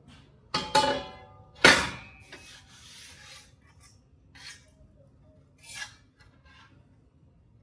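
Steel pieces knocked together: three sharp clanks in the first two seconds, each with a brief metallic ring, followed by softer scraping and a few lighter knocks.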